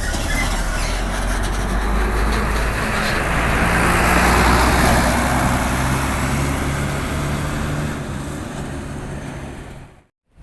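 Diesel bus engine running as a bus moves through the terminal, growing louder to a peak about halfway and then fading away. The sound cuts off abruptly near the end.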